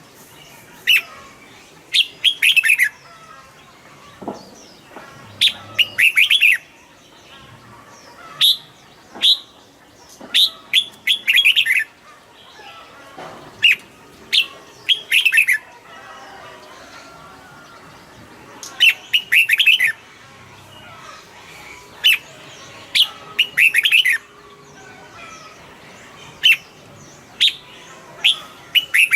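Red-whiskered bulbul singing: short, bright phrases of quick sweeping chirps, given in bursts a second or two apart.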